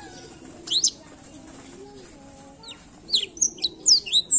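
Black-throated canary singing: a brief pair of high chirps under a second in, then a quick run of sharp, sweeping high notes over the last second and a half.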